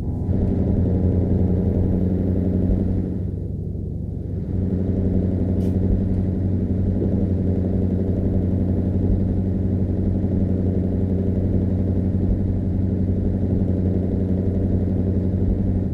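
Scania V8 truck engine running steadily with a deep, even note. It drops back briefly about three seconds in, then picks up again and holds steady.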